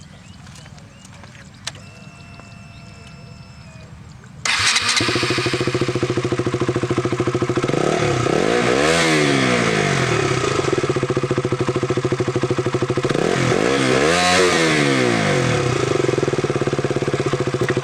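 KTM RC 200's single-cylinder engine with its stock underbelly exhaust, started about four and a half seconds in and left idling. It is revved up and back down twice.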